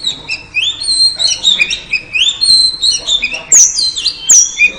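Oriental magpie-robin (kacer) calling: a fast, busy run of short rising whistled chirps, with a few sharp, louder notes in the second half. This is the female kacer call used as a lure to set male kacer singing.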